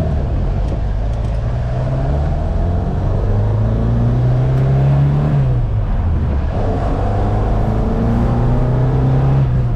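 Engine of a 1975 Ford Mk1 Escort ex-rally car pulling hard under acceleration, its pitch rising, dropping at a gear change about five and a half seconds in, then rising again and dropping with another shift near the end.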